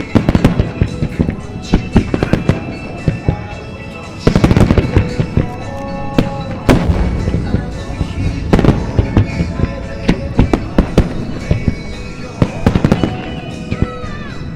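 Fireworks shells bursting in dense, irregular bangs and crackles, with heavier volleys about four, six and a half and eight and a half seconds in, over music playing along with the show.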